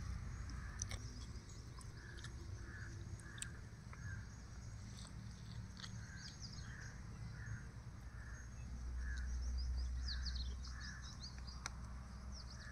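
Birds calling: a run of short repeated calls at about two a second, with a burst of higher, quick twittering chirps about two thirds of the way through, over a steady low rumble.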